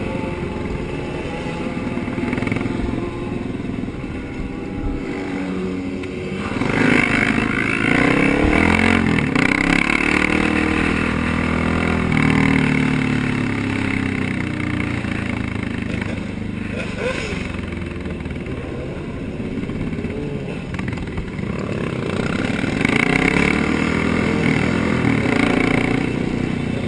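Motorcycle engines running and revving in a group, their pitch rising and falling as the bikes speed up and slow down, louder from about seven seconds in.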